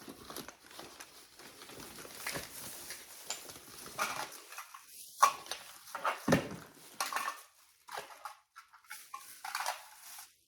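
Scattered light knocks, clinks and rustles of small objects being handled and set down.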